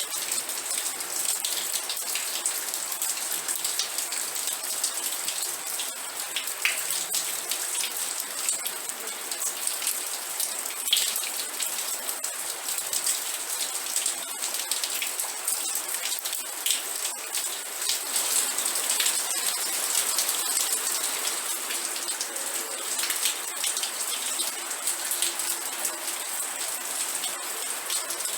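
Steady rain falling and pattering on a surface, a dense hiss full of small individual drop ticks.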